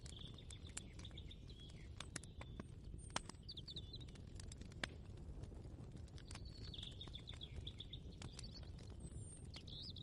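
Kitchen room ambience: a steady low rumble with scattered sharp clicks and knocks. A small bird trills twice, near the start and again past the middle, with a few short chirps in between.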